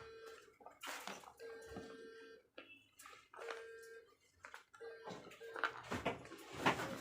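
Slate pencils being bitten and chewed, giving crisp crunching in several short bursts.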